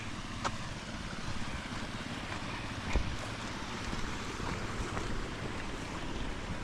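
Wind buffeting the microphone as a steady low rumble, with two brief knocks, the louder about three seconds in.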